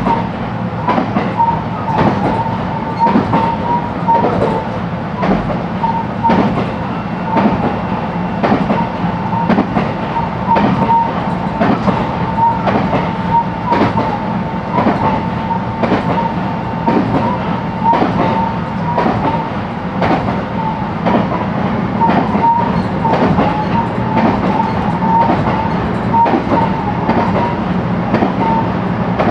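JR West 223 series electric train running at steady speed, heard from inside the motor car: frequent clacks of the wheels over rail joints over a constant low rumble, with a steady whine from the traction motors and gearing.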